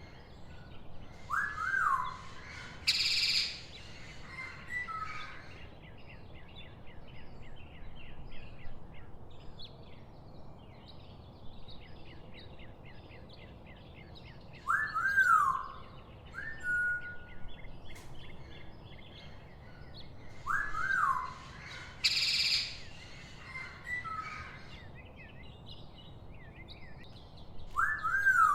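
Mixed birds calling and chirping: quick high chirps throughout, clear arched whistles that rise and fall now and then, and two short, loud calls, one a few seconds in and one about two thirds of the way through.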